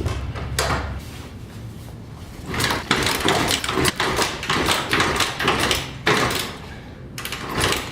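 1996 Kawasaki KLR 250 single-cylinder engine being kick-started after sitting unused: a rapid run of clanks and sputtering bursts begins about two and a half seconds in and lasts several seconds as the engine tries to fire.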